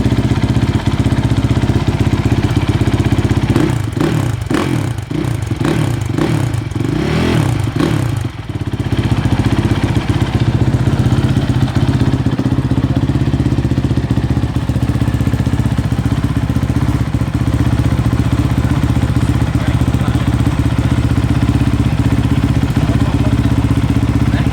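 2017 Honda CRF450R's single-cylinder four-stroke engine running at idle, blipped up and down in revs several times between about four and eight seconds in, then settling back to a steady idle.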